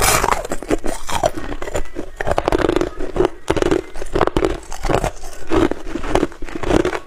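Ice being bitten and chewed close to the microphone: a run of loud, crackling crunches, roughly two a second, as the ice is crushed between the teeth.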